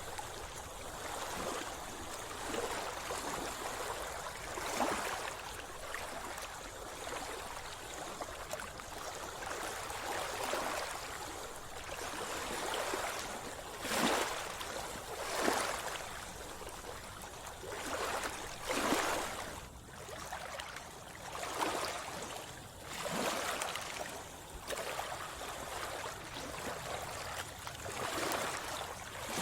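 Sea water splashing and gurgling close to the microphone around a swimmer, in a string of uneven splashes a second or two apart over a steady wash of water.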